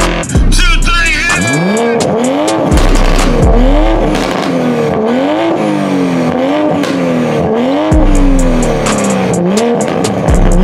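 Car engines revved in repeated quick blips, free-revving while parked. Each rev climbs fast and falls back, about once a second.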